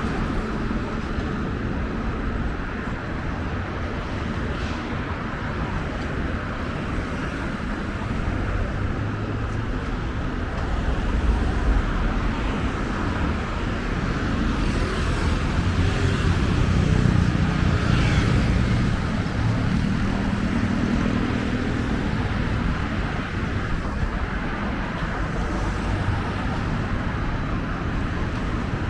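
Street traffic noise: a steady rumble of passing road vehicles, swelling a little about halfway through as something passes closer.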